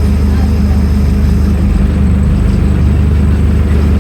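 Scania N310UA articulated city bus's diesel engine running steadily at a low, even speed with no revving.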